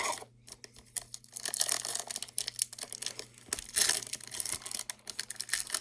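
A foil trading-card pack wrapper being torn open and crinkled: a dense run of crackling.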